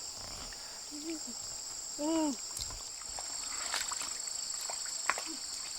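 Insects chirring in a steady high-pitched chorus, with two short vocal sounds from a woman about one and two seconds in and a few faint clicks near the end.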